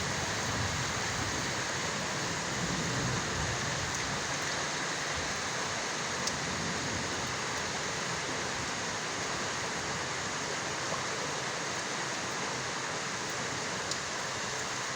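Heavy rain pouring steadily, with rainwater running in the street: a dense, even hiss with no break.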